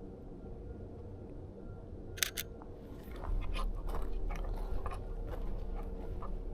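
Camera shutter firing about two seconds in, two sharp clicks a fraction of a second apart, followed by a stretch of irregular crunching and scraping.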